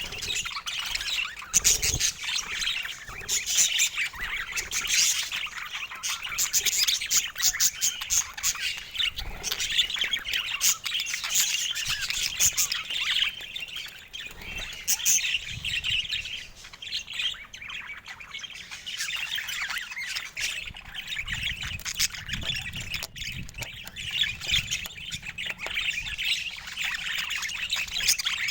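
Budgerigars chattering: a continuous stream of short, high, overlapping calls.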